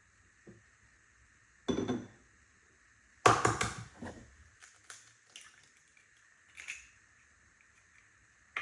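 Kitchen food-preparation sounds: a short crunching knock about two seconds in, a louder crunch a second later, then a few light clicks and taps.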